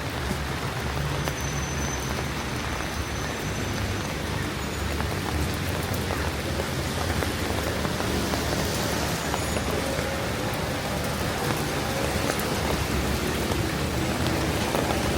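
Steady rain falling and pattering on the surfaces around, with a low rumble underneath. It grows slightly louder near the end.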